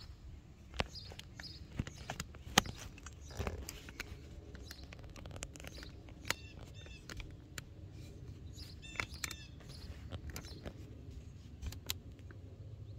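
Low background with scattered clicks and knocks, the sharpest few in the first three seconds, and a bird chirping in quick short series about seven and nine seconds in.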